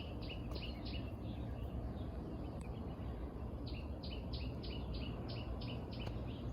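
A bird calling in runs of short, quick notes, each dropping in pitch, about three a second. One run comes at the start and a second, longer one from about the middle, over a steady low background rumble.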